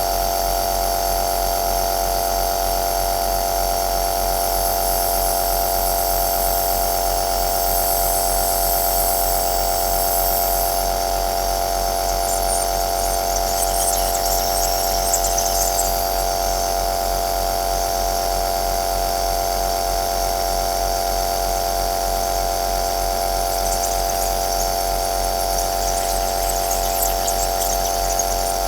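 Compressor nebulizer running steadily: an even motor hum with a clear steady tone and a high hiss, which flutters briefly about halfway through and again near the end.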